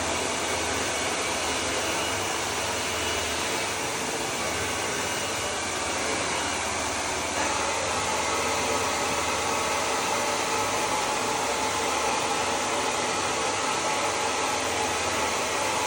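Handheld hair dryer blowing steadily, a little louder from about seven seconds in.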